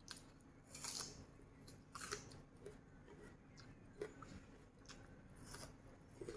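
A person chewing food close to the microphone, with a handful of separate, irregularly spaced crunchy bites.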